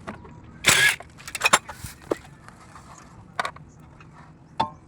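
Metal parts and tools being handled in a workshop: scattered sharp clicks and clanks, one ringing briefly near the end, and a short loud scrape just under a second in.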